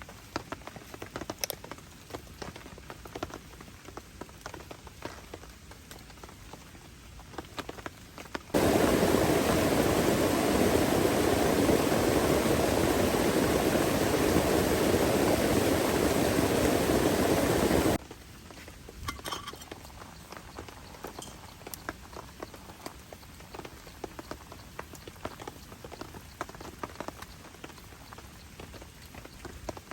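Rain pattering on a tent shelter in scattered drips. Partway through, a much louder, dense rush of heavy rain cuts in abruptly, runs for about nine seconds, and cuts out just as suddenly, leaving the lighter patter again.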